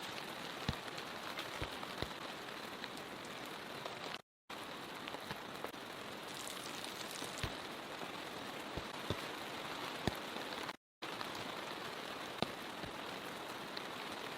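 Steady heavy rain hissing, with scattered louder single drops ticking onto a surface. The sound cuts out completely for a moment twice, about four seconds in and again near eleven seconds.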